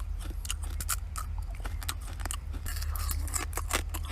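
A person biting and chewing food up close, with many small irregular clicks and crunches from the mouth, over a steady low hum.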